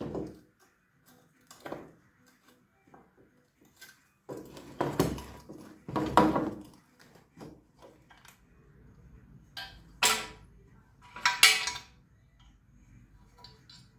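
Small metal parts of a scooter's kick-starter clinking and knocking as its spring is fitted by hand: scattered light clicks with a handful of louder clatters, the sharpest about ten and eleven and a half seconds in.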